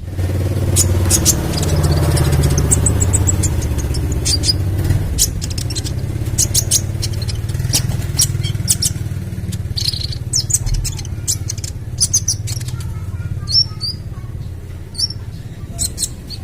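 Young kolibri ninja (sunbird) giving rapid, sharp high chirps and short call notes, over a steady low engine-like rumble that starts abruptly at the beginning.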